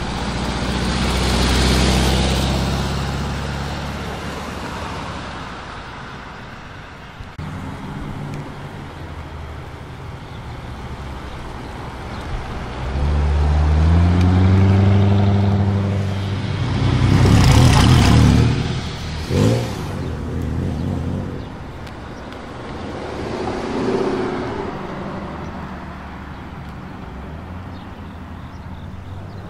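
Cars driving past one after another. First a Volkswagen Karmann Ghia's air-cooled flat-four goes by; later a C7 Corvette's V8 revs up, its note rising, and runs loudest as it pulls away, with a short sharp blip just after. A smaller pass follows.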